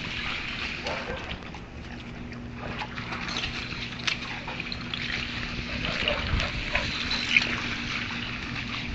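Dogs playing and chasing each other, making irregular scuffling noises over a steady low hum.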